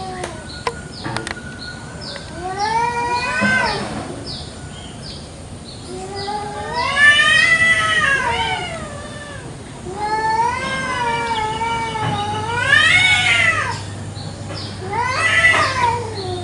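Domestic village cats yowling at each other in a territorial standoff: long, wavering howls that climb in pitch and swell in loudness, four in turn.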